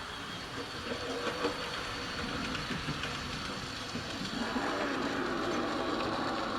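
A vintage Hornby 00 model locomotive running on OO gauge track: a steady motor whirr, with the wheels clicking over rail joints and points, growing slightly louder about two-thirds of the way in.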